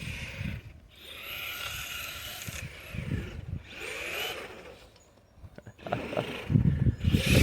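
A Redcat Everest 10 RC truck's electric motor and gears whining through deep snow, the pitch rising and falling with the throttle. Low, uneven noise bursts grow louder near the end.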